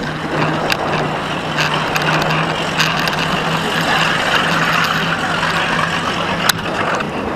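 An engine running steadily, a constant low hum under a broad noisy wash, with a sharp click about six and a half seconds in.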